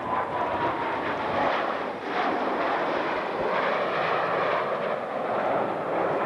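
Military jet engines running loud as the demonstration jets fly past, with a whine that slides down in pitch over the first second.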